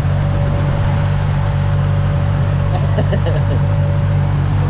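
Turbocharged Ford Barra straight-six idling steadily.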